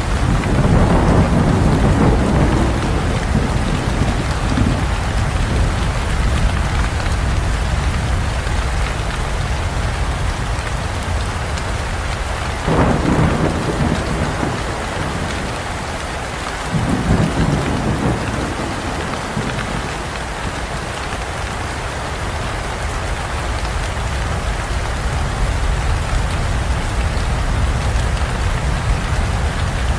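Heavy rain falling steadily on a forest, with rolls of thunder rumbling at the start, about a third of the way in, and again a few seconds later.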